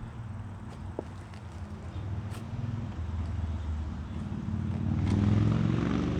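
Craftsman 6.5 self-propelled lawn mower's small single-cylinder engine running steadily with its air filter refitted, getting louder about five seconds in.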